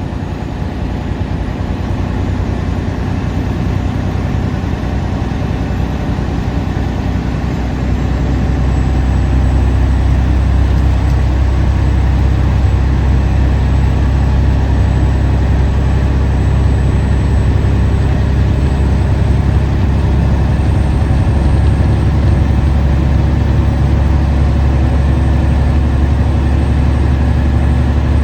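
Steady low drone of a vehicle's engine and road noise heard from inside the cab while driving on the highway, getting a little louder about eight seconds in.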